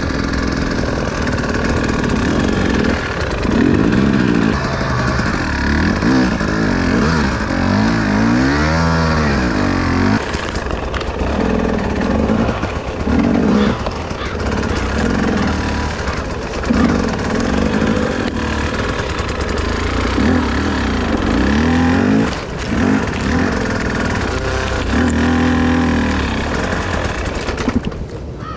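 Enduro motorcycle engine being ridden hard, revving up and down over and over, its pitch rising and falling every second or two.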